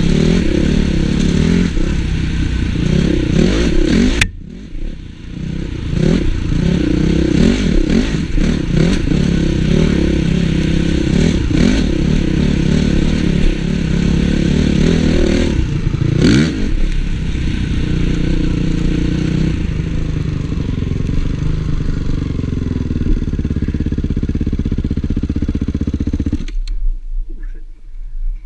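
Honda CRF450 single-cylinder four-stroke motocross bike being ridden hard, the engine revving up and down with the throttle. About four seconds in, the sound cuts off abruptly for a moment before the engine picks up again, and near the end it drops to a low rumble.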